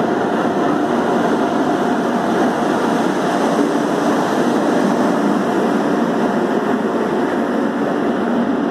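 Indian Railways WAP-7 electric locomotive and its passenger coaches rolling past close by, a steady rumble of wheels on rail with a low electric hum.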